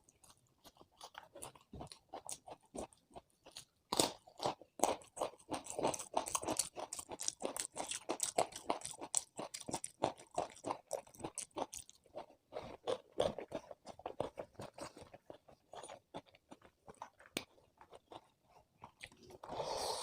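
Close-miked chewing and crunching of food in a person's mouth, a dense run of crunchy bites from about four seconds in until about twelve seconds, then sparser chewing.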